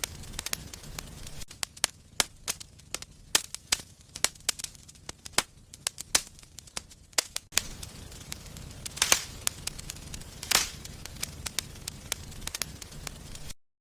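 Wood fire crackling in a fireplace: a steady low rumble of flames with many sharp pops and snaps, two louder ones near the end. The sound cuts off suddenly just before the end.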